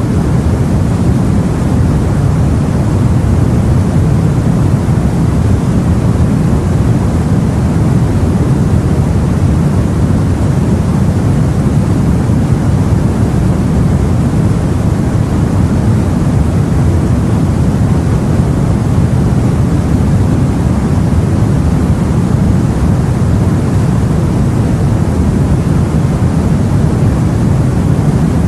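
Steady, deep rushing of sea water heard aboard a boat, an even low rumble with no separate waves breaking.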